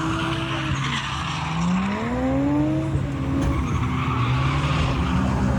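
Drift car engine revving up and down through a slide while its tyres squeal. The engine's pitch drops about a second in, climbs steeply, falls away, then rises again near the end.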